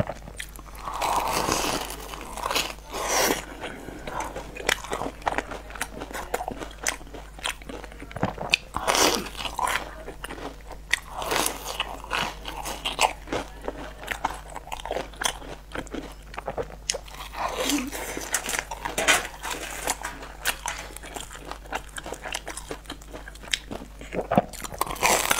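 Close-up biting and chewing of sugar-crusted twisted bread dipped in cream: many sharp, irregular crunches with chewing in between.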